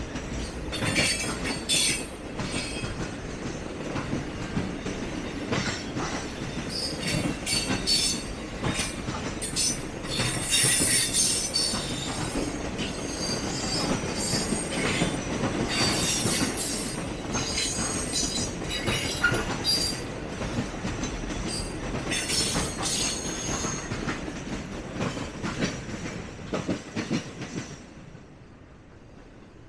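Triple Crown RoadRailer train rolling past: a steady rumble of wheels on rail, with repeated high-pitched wheel squeals and clicking. The sound drops away sharply near the end.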